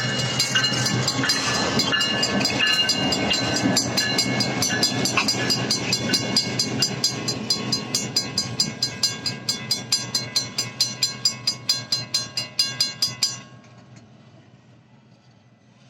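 Railroad crossing bell ringing at a steady rate, about two or three strokes a second, over the rumble of a freight train rolling through the crossing, which gradually fades. The bell stops suddenly about three quarters of the way through.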